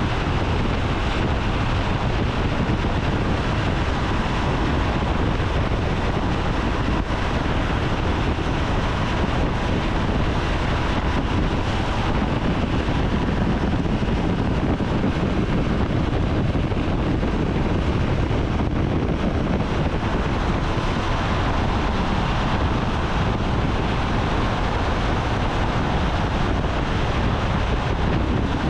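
Steady wind rush on the camera microphone from a 2017 Triumph Tiger 800 XCA motorcycle riding at freeway speed, with the bike running underneath.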